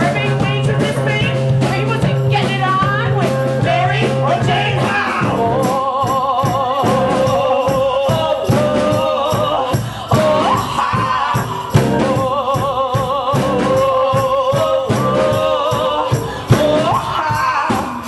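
Live rock band playing with drums, with a held bass note for about the first five seconds. After that a wavering melodic line carries on over the drums.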